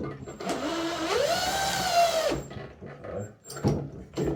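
Handheld power drill spinning up, running steadily for about a second, then winding down. A few short clicks and knocks follow near the end.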